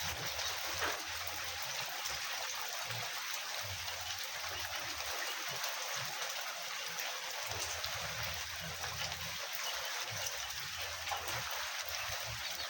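Steady hiss of rain falling, with intermittent low rumbling underneath.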